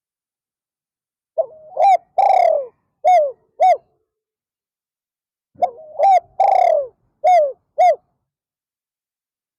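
Spotted dove cooing: two phrases a few seconds apart, each a run of short coos around one longer, falling coo.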